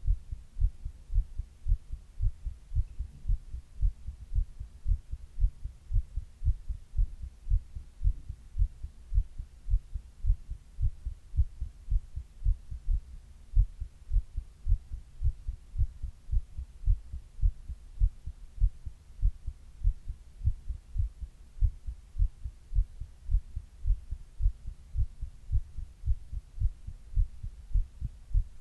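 A person's own heartbeat recorded close up, steady lub-dub heart sounds as low, muffled thumps, a little over one beat a second.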